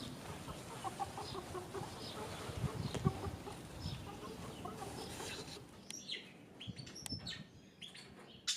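Domestic fowl calling: soft, short, repeated low notes through the first half, then a run of quick high chirps in the second half, the last one loudest.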